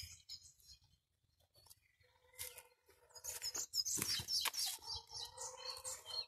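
Small birds chirping in quick, high repeated notes, starting about halfway through, with a few scattered light clicks.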